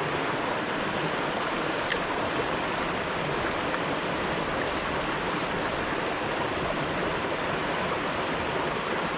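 Creek water running in a steady rush, with one small sharp click about two seconds in.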